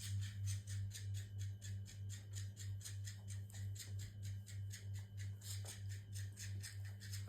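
A fish cat toy running with a steady low hum and an even rhythmic rattling, about four beats a second, as of a small motor flapping its tail.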